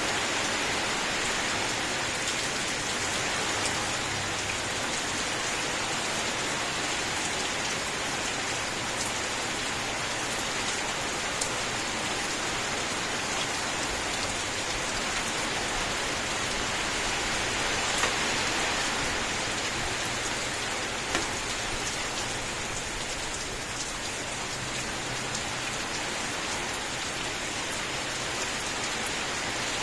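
Steady, dense rain falling on a hard surface, a continuous hiss with occasional distinct drop ticks.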